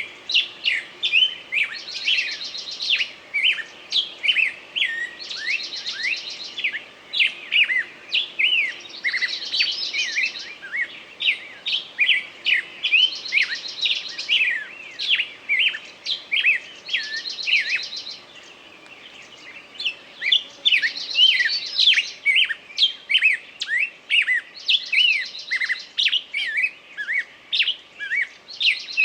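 A bird singing a fast run of short, sweeping chirps, broken every few seconds by a buzzy trill, with a short pause a little past the middle.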